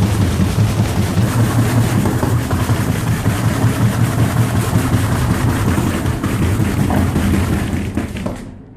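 Washing machine on its spin cycle with a stone in the drum: the drum runs loud, with a steady low hum and a rapid, continuous rattling and knocking. The noise dies away near the end.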